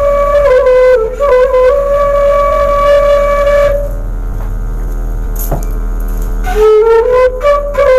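Bamboo suling flute played by a beginner: held notes that step between pitches, then a pause of about three seconds before the playing resumes with a rising note.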